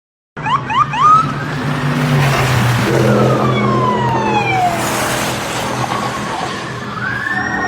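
Police car sirens starting a moment in with a few quick chirps, then long wailing glides that fall and rise in pitch, over a steady vehicle engine drone.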